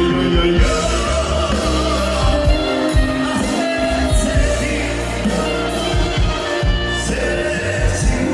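Albanian folk music: a voice singing over a çifteli, the two-stringed Albanian lute, with bass and a steady beat.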